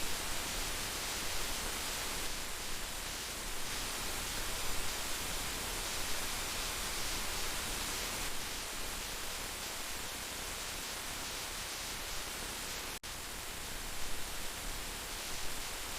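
Heavy rain falling steadily as a dense, even hiss, with a split-second dropout about thirteen seconds in.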